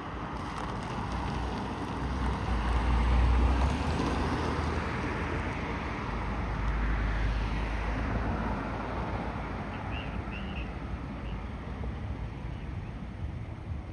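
Road traffic: vehicles passing with tyre noise and low engine rumble, swelling as one goes by about three seconds in and another about seven seconds in.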